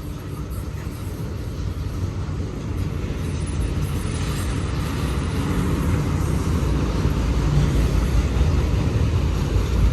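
Westbound BNSF manifest freight train's cars rolling past on the rails: a steady low rumble that grows slowly louder.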